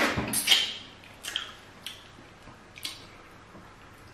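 Wet, open-mouthed lip smacking while chewing fufu with soup, deliberately loud. A dense run of smacks at first, then single smacks about a second apart, growing fainter.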